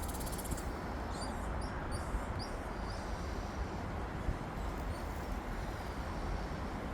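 Wind buffeting the microphone with a steady low rumble. About a second in, a bird gives a string of short, high chirps, roughly two a second, for a couple of seconds.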